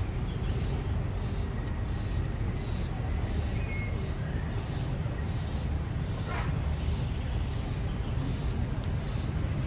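Street ambience: a steady low rumble of traffic, with faint repeated high chirps, likely birds, over it.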